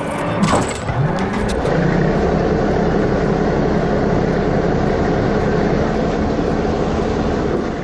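A motor vehicle engine revving up in a couple of quick rising glides, then running steadily at a constant pitch. A few clicks come with the rev-up, and the sound fades just before the end.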